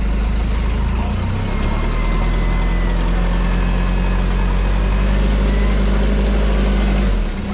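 Toyota Hilux LN106's turbo-diesel engine running steadily, its note shifting about a second in and easing off near the end, with a faint high whine over it.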